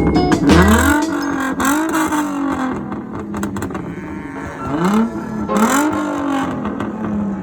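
A car engine being revved in repeated blips, each one rising quickly in pitch and falling back toward idle. There are two pairs of revs, one in the first two seconds and another about five seconds in.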